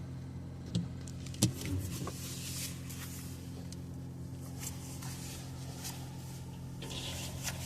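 Car engine running steadily, heard from inside the cabin while driving in heavy rain, with a hiss of rain and wet road. Two sharp knocks come in the first couple of seconds.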